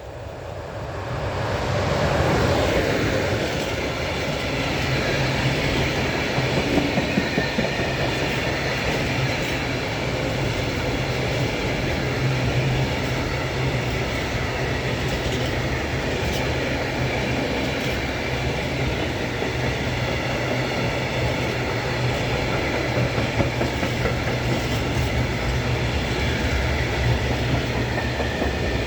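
Train running past close by, wheels clattering over the rails. It swells up over the first two seconds, then stays loud and steady.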